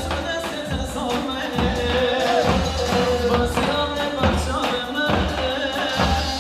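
Live Turkish halay dance music from an electronic keyboard: a wavering, held melody line over a steady, thumping drum-machine beat.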